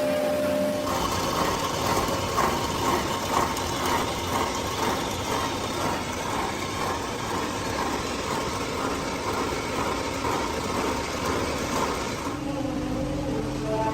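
Workshop machinery running with a steady, rhythmic mechanical rattle. Near the end it gives way to background music.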